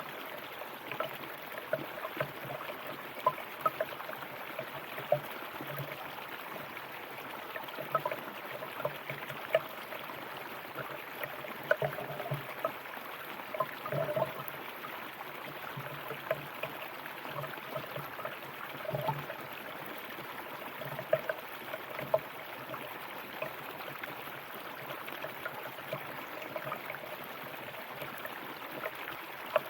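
River water flowing steadily, with frequent brief gurgles and splashes.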